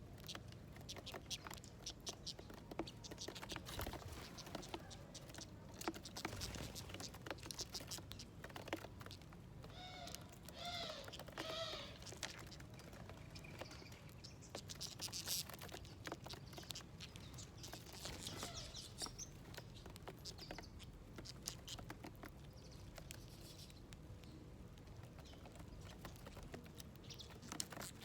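Birds pecking seeds and nuts on a feeder dish: irregular quick taps and clicks, with a short wavering bird call about ten seconds in and a few faint chirps after it.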